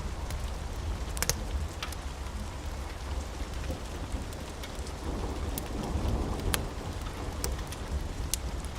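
Steady rain with a low rumble of thunder underneath, swelling about five seconds in, and scattered sharp ticks throughout.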